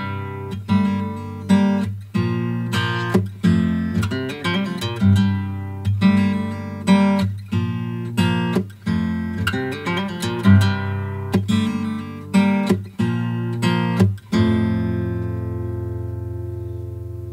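Background music: strummed acoustic guitar, with one chord left ringing and fading away near the end.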